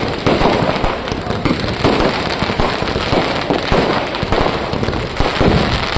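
Fireworks and firecrackers going off in a dense, unbroken barrage: many bangs each second, overlapping into a continuous crackle and boom.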